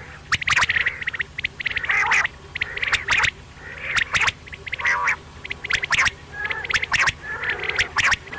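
Quail calling over and over: clusters of short, sharp chattering notes and clicks, about one cluster a second.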